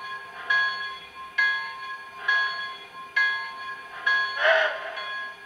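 Steam locomotive bell from the sound system of an HO-scale MTH Union Pacific 4-12-2 model, ringing steadily at about one strike a second. A short hiss breaks in near the end.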